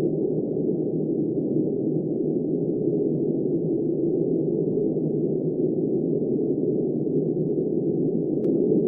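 Steady, deep, muffled wind noise of a snowstorm, with no hiss or highs at all, and one faint tick near the end.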